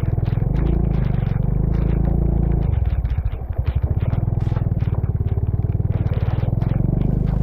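Motorcycle engine running steadily with a low pulsing drone. About three seconds in, the engine eases off briefly, then picks up again. Scattered clattering and scraping can be heard over it.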